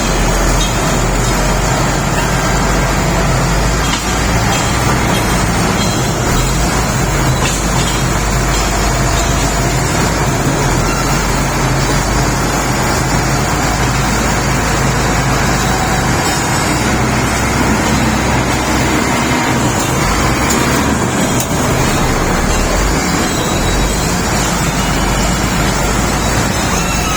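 Diesel engine of a Shantui SD32 crawler bulldozer running steadily.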